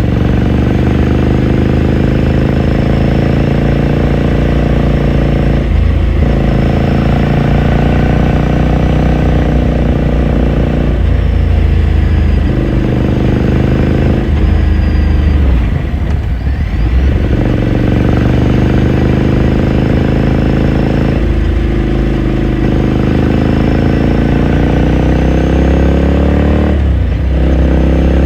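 2018 Ducati Scrambler Sixty2's 399 cc air-cooled L-twin running under way, its exhaust note climbing in pitch under throttle and breaking off briefly about five times, the longest break near the middle.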